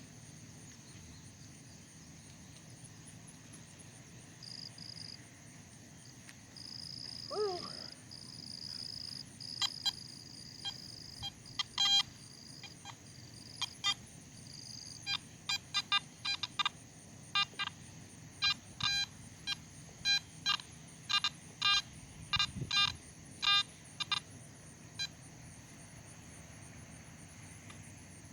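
Metal detector beeping on a target: a steady high tone, then a run of short, sharp beeps about two a second that stops a few seconds before the end. A brief gliding whistle sounds about seven seconds in.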